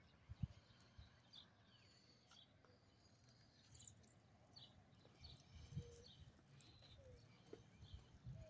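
Faint birds chirping, short calls repeating every second or so, over near-silent outdoor quiet, with a few soft low thumps past the middle.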